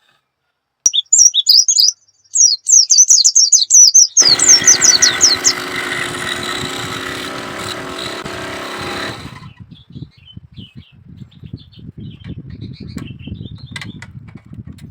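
A small bird chirping in quick runs of short, falling notes. About four seconds in, a steady whirring noise joins it and cuts off suddenly about five seconds later. Low, irregular rustling follows, with a few faint chirps.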